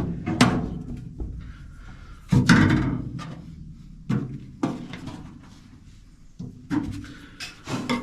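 A hand tool scraping and knocking against the car body's sheet metal in a series of short strokes, digging still-soft, uncured seam sealer out of a seam. The longest scrape comes about two and a half seconds in.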